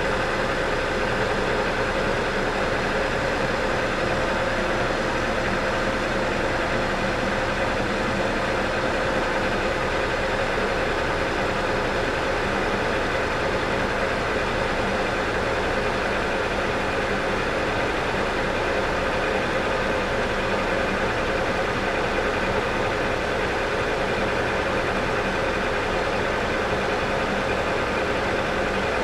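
South Bend 14-1/2 lathe running steadily under power feed while turning a steel shaft: an even machine hum with several steady tones through it.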